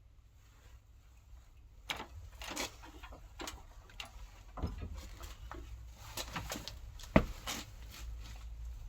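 Scattered clicks and knocks of tools and car parts being handled during a front-axle repair, the sharpest knock about two-thirds of the way through, over a low hum that comes in about halfway.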